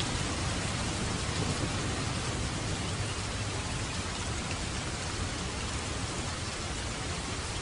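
Steady rain falling, an even hiss, with a low rumble underneath that eases off over the first few seconds.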